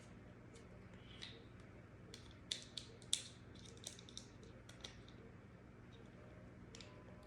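Faint, scattered light clicks and taps of small metal and plastic pistol parts being handled during cleaning of a Smith & Wesson M&P 9mm, with a quick cluster of sharper clicks about two and a half to three seconds in, over a low steady hum.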